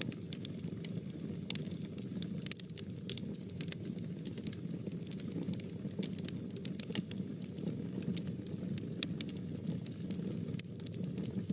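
Fire burning in a fireplace: a steady low rumble of flames with many irregular sharp crackles and pops.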